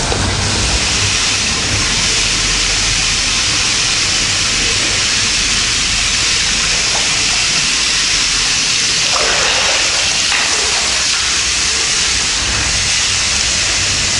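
Steady rushing road and wind noise of a moving car, an even hiss over a constant low rumble.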